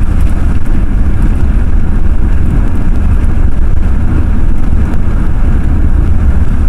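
Ford F-350 pickup truck driving, heard from inside the cab: a steady, loud low rumble of engine and road noise.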